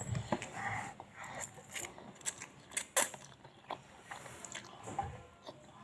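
Close-up eating sounds of mie ayam geprek being eaten: chewing and biting with irregular small clicks and smacks, about a sharper click three seconds in.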